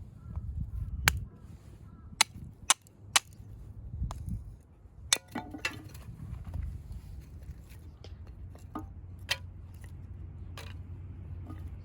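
Firewood being split: a series of sharp wooden cracks and knocks, irregularly spaced, three of them about half a second apart early on and one about five seconds in followed by a brief ring.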